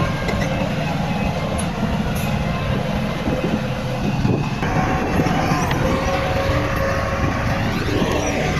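Heavy diesel earthmoving machinery, a bulldozer and dump trucks, running in a steady low rumble, with thin high metallic squeals coming and going above it.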